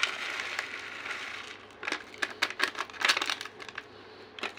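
A packet of jhalmuri (spiced puffed rice) being handled and opened: crinkling and rustling, with a quick run of sharp crackles about two to three seconds in and one more near the end.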